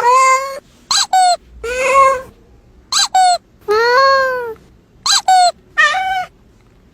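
A cat meowing: three long meows that rise and fall in pitch, each followed by a pair of short, high chirps that drop sharply in pitch.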